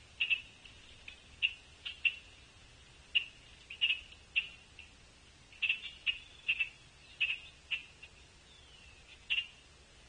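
Short, sharp chip calls of a bird, repeated irregularly about one or two a second, with a faint falling whistle near the end.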